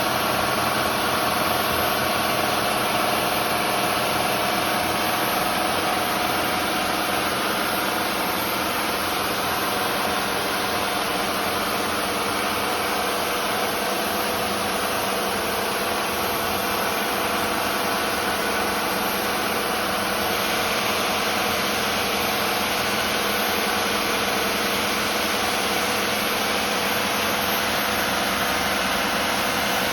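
Twin diesel engines of a Bayliner 4788 motor yacht running steadily, a continuous even drone.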